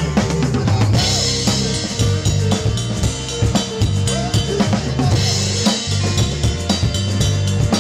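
Live rock band playing, with the drum kit to the fore: steady bass drum and snare backbeat under electric bass and guitars, with a brighter cymbal wash about a second in and again around five seconds in.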